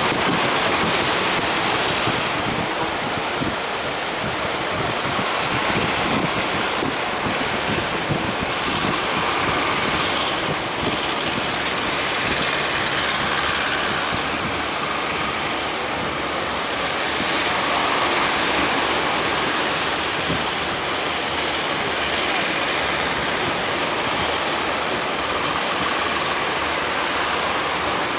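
Heavy surf, a steady rushing of breaking waves, with wind on the microphone. The noise swells and eases slowly without breaking off.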